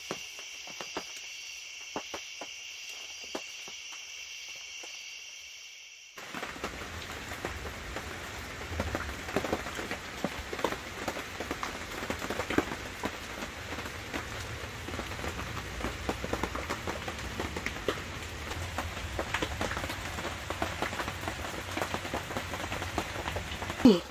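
A steady high-pitched insect chorus, which cuts off about six seconds in. Then rain patters steadily on the canvas wall tent, a dense hiss with many separate drops ticking, and a loud yawn comes right at the end.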